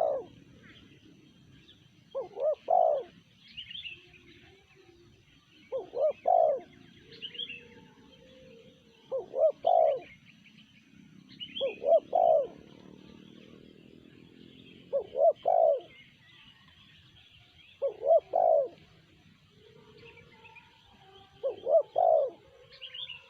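Spotted dove cooing, in the call style tekukur keepers call 'sanji': a short phrase of two or three notes repeated about every three seconds, eight times. Small birds chirp faintly in the background.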